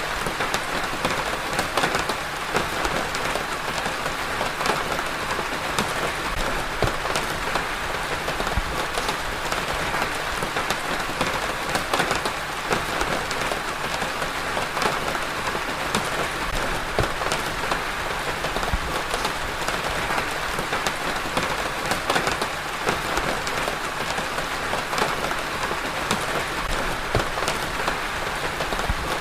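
Steady rain falling on a surface, a dense hiss with many individual drops pattering throughout.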